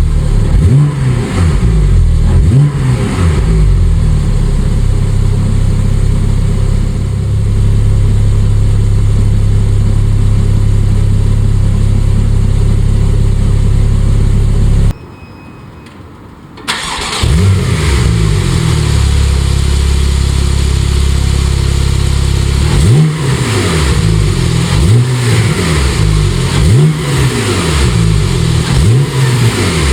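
Porsche 911 Turbo S (991) twin-turbo flat-six engine, revving up and down, then holding a steady note. The sound cuts out suddenly for under two seconds about halfway through. It returns, with the revs rising and falling several times near the end.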